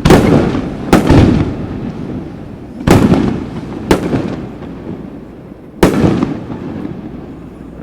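Aerial fireworks shells bursting: five sharp bangs over about six seconds, each trailing off in a long echo.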